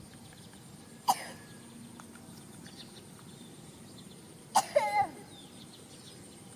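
Two short, sharp animal calls, each dropping in pitch: one about a second in, and a quick double call near five seconds.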